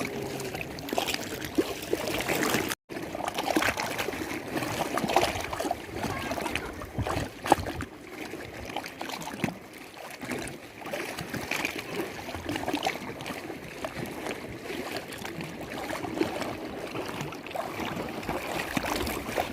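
Lake water lapping and splashing: irregular trickling with many small splashes, and a brief break in the sound about three seconds in.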